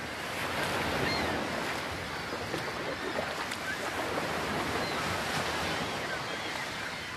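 Ocean waves washing in a steady rush of surf that swells and eases gently, with a few faint short high cries above it.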